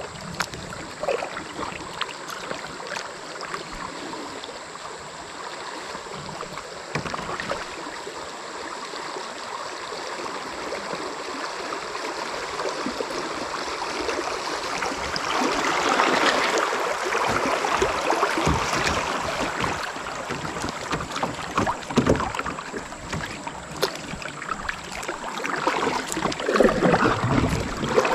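Creek water rushing and splashing around a kayak, with scattered knocks and clicks; the rush swells about halfway through and again near the end.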